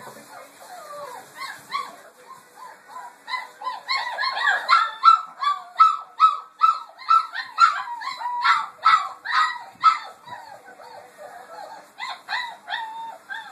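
Four-week-old German Shepherd puppy yelping and crying in short high-pitched calls, about two or three a second through the middle, fewer and fainter at the start and near the end.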